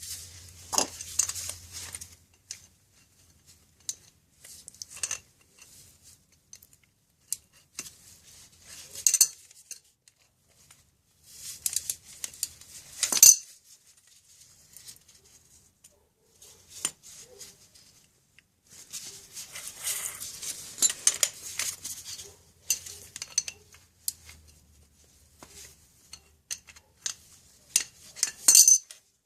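A wrench and bicycle hub axle parts clinking and rattling while the bearing cones and nuts are adjusted by hand. There are scattered metal clinks and short spells of clatter, with the sharpest clink about thirteen seconds in.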